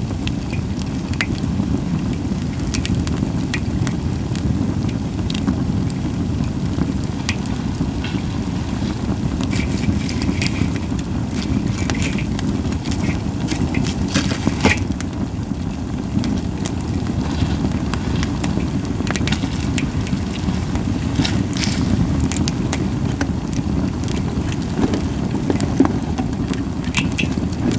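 Japanese white pine firewood burning, crackling and popping at irregular intervals, with a louder pop about halfway through, over a steady low rumble.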